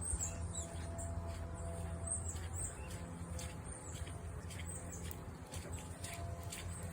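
Small birds giving short, high chirps, several to a second, over a low steady hum, with scattered sharp ticks of water dripping from rain-wet trees.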